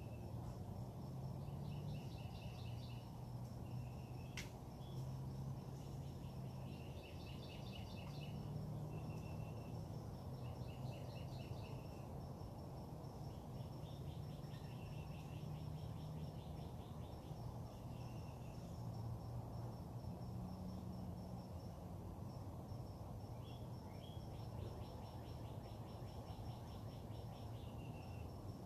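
Songbirds singing short trilled phrases every few seconds over a steady, pulsing high insect buzz and a constant low rumble. One sharp click about four seconds in.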